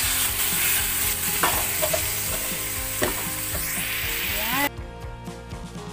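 Raw chicken pieces sizzling as they start to fry with garlic, onion and ginger in a hot non-stick wok, with a wooden spatula stirring and scraping them around the pan. The sizzle cuts off suddenly near the end and background music takes over.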